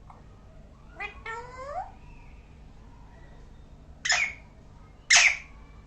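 Pet parrot calling: a drawn-out call falling in pitch about a second in, then two short, harsh screeches near the end, the last the loudest.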